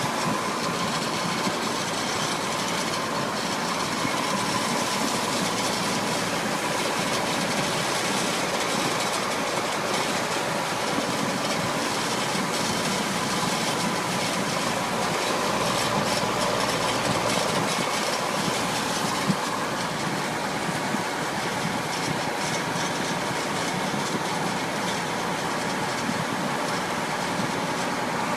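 High-water truck running steadily, its engine and road noise an even rumble and hiss, with a faint steady whine throughout.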